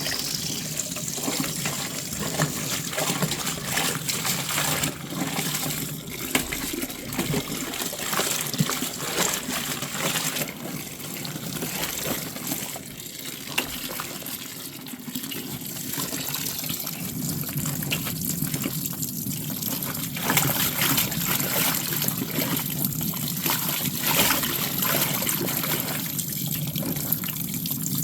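Soapy water sloshing and trickling, with many small splashes and crackles throughout.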